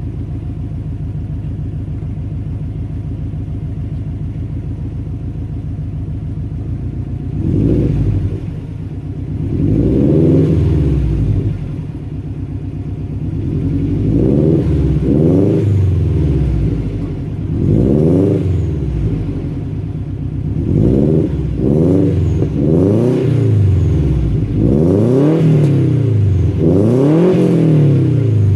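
2004 Subaru Forester XT's turbocharged flat-four, breathing through headers, a catless up-pipe and downpipe, a high-flow center cat and a Prodrive oval-tip exhaust, idles steadily. About seven seconds in, it begins a series of quick revs, each rising and falling back. The revs come closer together toward the end.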